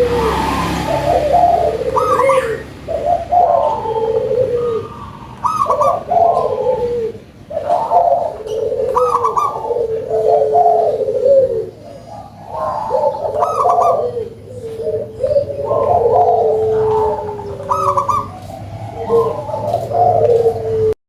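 Local perkutut (zebra dove) cooing, with repeated bubbling phrases following one after another about every two seconds. The sound cuts off suddenly near the end.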